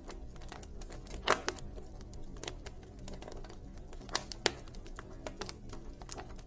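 Wood fire crackling in a fireplace: irregular sharp snaps and pops over a low steady rumble, with a louder pop about a second in and a couple more past the middle.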